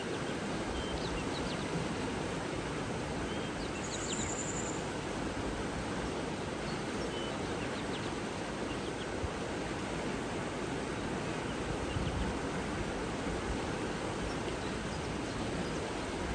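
Steady rushing water with a few faint, short bird chirps above it, and a brief high trill about four seconds in.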